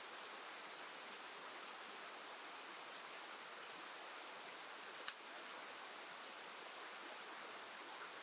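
Steady rushing of a river with rain falling, and a single sharp pop about five seconds in.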